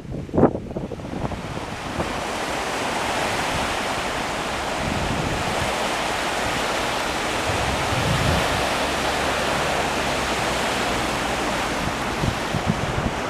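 Wind-driven waves making a steady rush of surf. Wind buffets the microphone in the first second or two.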